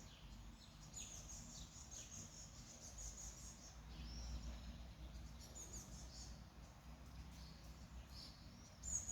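Small birds chirping with short, high calls every second or two, the loudest just before the end, over a faint, steady low rumble.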